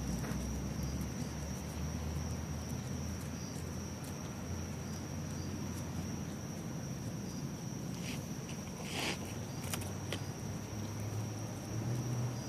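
Cicada calling in one steady high-pitched drone, over a low rumble. A few soft rustles come about eight to ten seconds in.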